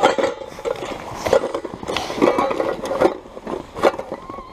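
Rummaging for a camping kettle among picnic gear: irregular rustling, scraping and several sharp knocks of things being moved about.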